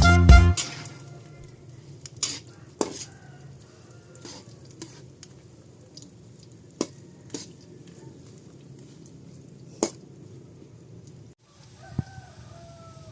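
Background music stops about half a second in. Then a kitchen utensil clinks sharply against a pan a dozen or so times, as saba banana pieces are stirred while frying, over a faint steady sizzle. A short animal call is heard faintly near the end.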